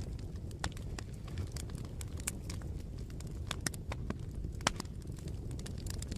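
Bonfire crackling: irregular sharp pops and snaps of burning wood over a steady low rumble of flames, with one louder pop a little past the middle.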